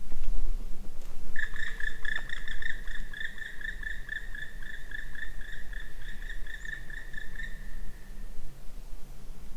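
An animal's long, even trill on one pitch with faint overtones, starting about a second and a half in and fading out about eight seconds in, over a steady low rumble.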